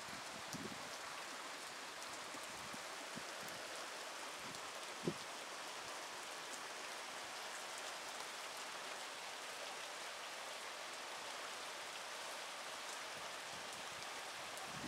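Steady rain falling, an even hiss of drops, with a single short tap about five seconds in.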